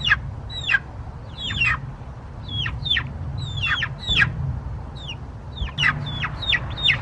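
A flock of baby chicks peeping loudly: many short, high chirps that fall in pitch, two or three a second and overlapping. This is the frightened chirping the chicks start as it gets dark.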